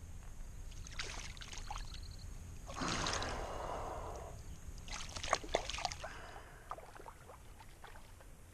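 Water splashing and sloshing close by as a hooked trout thrashes at the water's edge, with the biggest splash about three seconds in and scattered small splashes and clicks around it, over a steady low rumble.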